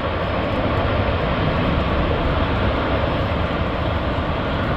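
Steady rushing wind noise from a tornado sweeping through a neighborhood, an even, unbroken rumble with no pauses or separate impacts.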